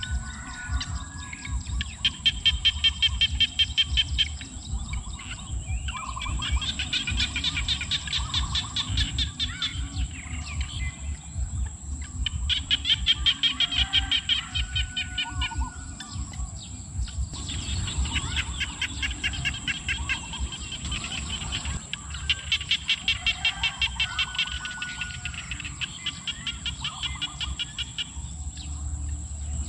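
Birds chirping in repeated rapid trilling bouts of about two to three seconds each, with short pauses between them, over a steady low background noise.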